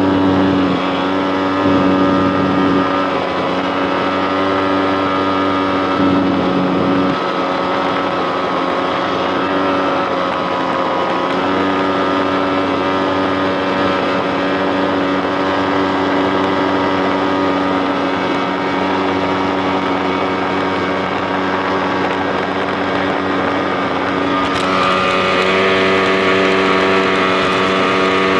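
Jet jon boat's outboard engine running steadily, its pitch wavering in the first several seconds, then climbing near the end as the throttle opens up.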